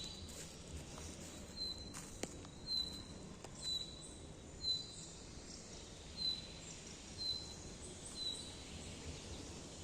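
A bird repeating one short, high call note about once a second, with fainter higher chirps from other birds in the second half, over a steady outdoor background. A couple of sharp clicks about two seconds in.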